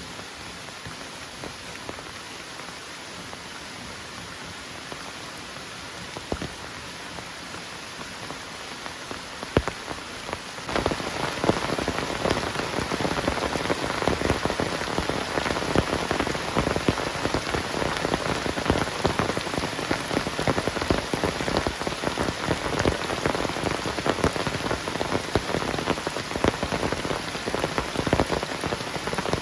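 Heavy rain falling. A little over ten seconds in it suddenly becomes louder, with a dense patter of drops striking a surface.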